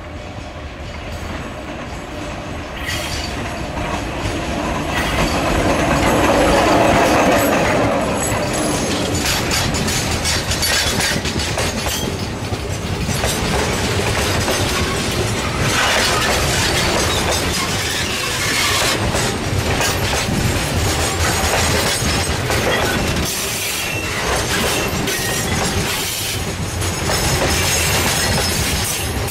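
A 900 mm narrow-gauge electric locomotive hauling a heavy train of limestone hopper wagons passes close by. It is loudest as the locomotive goes past several seconds in, then the wagons roll by with their wheels clicking steadily over the rail joints.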